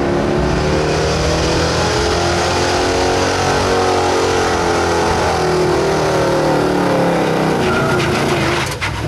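1977 Ford F-350's stock gasoline engine at full throttle, pulling a weight-transfer sled down a blacktop track. The engine pitch climbs slowly, holds as the load builds, then sags and drops off sharply near the end as the truck bogs to a stop.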